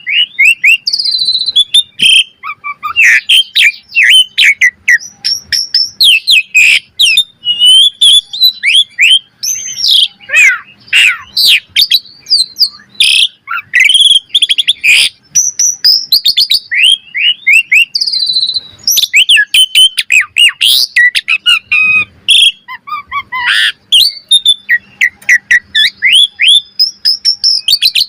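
Asian pied starling (jalak suren) singing a long, varied song: rapid chirps, quick rising and falling whistles and harsher notes, delivered almost without pause.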